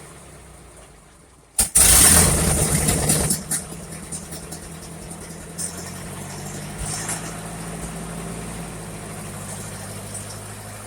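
1958 Ford 851 tractor engine dying away, then starting again with a loud burst about one and a half seconds in, and settling into a steady idle.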